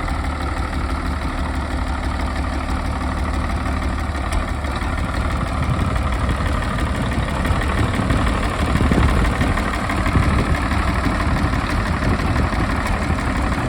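International 560 Wheatland tractor's six-cylinder diesel engine idling steadily, a little louder from about halfway through.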